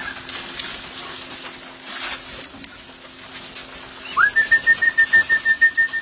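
A bird's rapid pulsing whistled call, starting about four seconds in: the note sweeps up, then holds one pitch at about seven pulses a second. It is an alarm call, the kind birds give when a raptor such as a wedge-tailed eagle is overhead.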